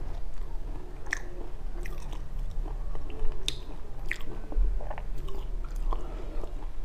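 A person chewing and crunching a mouthful of dry sesame and anise seeds, with irregular crisp crackles as the seeds break.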